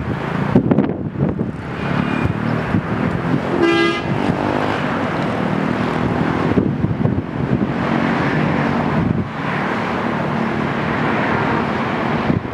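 Air Tractor AT-802 single-engine turboprop running steadily. About four seconds in, a brief horn-like toot sounds over it.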